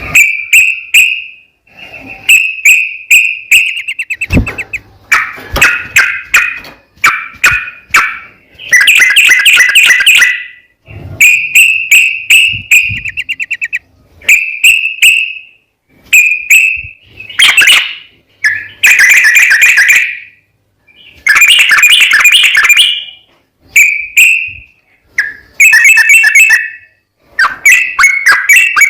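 Yellow-vented bulbul (trucukan) singing loud, repeated phrases of quick chattering notes with short pauses between them, some phrases drawn out into long rapid-fire runs (the 'ropel' song).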